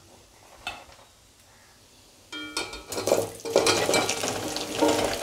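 Cut raw mango pieces tipped into hot mustard oil with panch phoron in a kadai. After a quiet first two seconds, a metallic clink comes as the pieces go in, then loud sizzling of frying with stirring in the pan.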